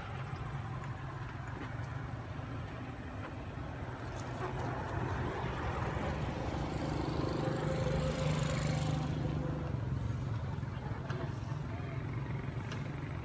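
A steady low engine hum, like a motor vehicle running, that grows louder around the middle and then eases off, as if the vehicle passes by.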